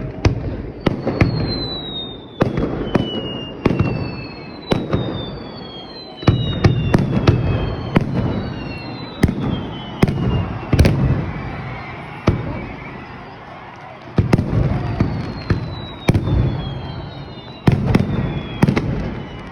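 Aerial fireworks going off: a string of sharp bangs, often several close together, each trailing a low rumble. High whistles slide down in pitch between the bursts.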